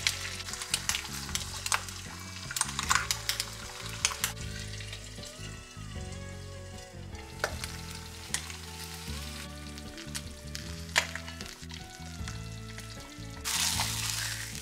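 Ham slices and eggs frying in oil in a frying pan, sizzling with sharp crackling pops that are densest in the first few seconds, then thinning. Near the end a louder rush of hiss as a spatula slides the ham and eggs out of the pan. Soft background music underneath.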